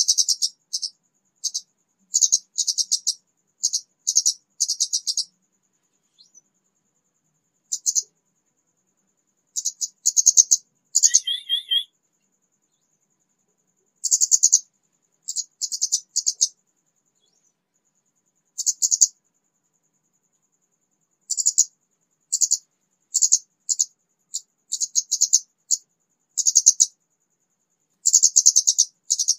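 Young orange-headed thrush (kemade), a raw bird just starting to sing, giving short bursts of rapid high chirps every second or two with longer pauses between groups. About eleven seconds in there is one lower, warbled phrase.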